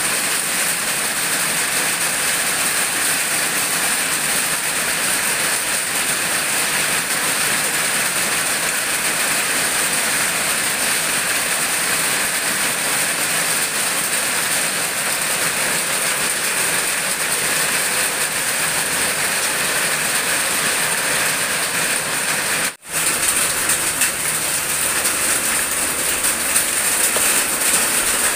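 Eggplant slices sizzling in hot oil in a wok: a steady hiss. It cuts out for an instant about 23 seconds in, then carries on.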